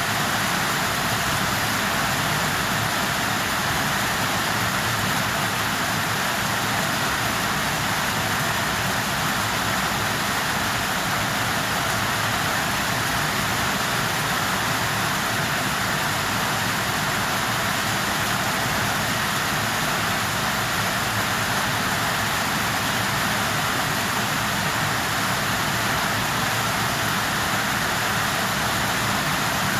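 Steady rain: an even hiss with no let-up and no other events.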